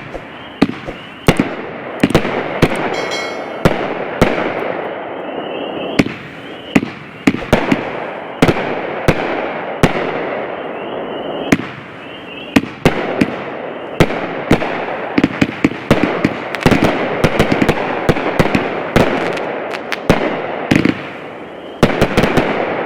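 A 30-shot, 500-gram fanned firework cake firing its colour mines and peony breaks. Sharp bangs come at an uneven, changing pace, sometimes several a second, over a steady hiss and crackle.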